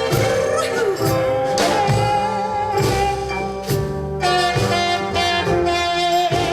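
Jazzy band music with saxophone and brass playing held melody notes over a steady beat.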